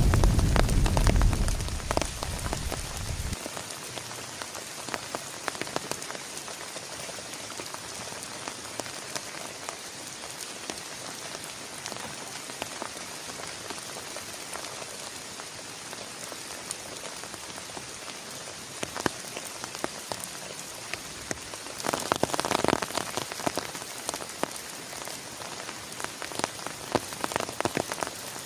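Heavy rain falling steadily on a surface, with sharp drop taps scattered through it. The tail of a thunder rumble dies away in the first few seconds, and the rain swells louder for a couple of seconds about three-quarters of the way in.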